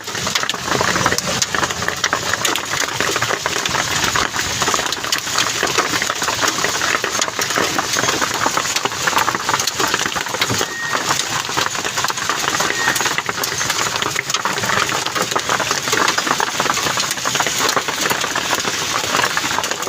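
Heavy rain falling: a steady, dense crackle of countless drops striking hard surfaces.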